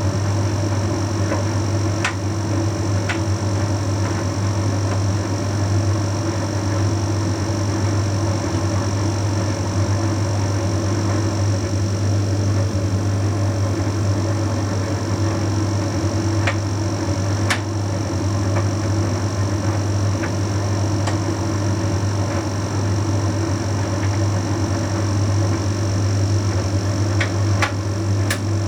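Bosch Series 6 heat pump tumble dryer running mid-cycle: a steady low hum with a faint high whine above it, and a few light clicks now and then.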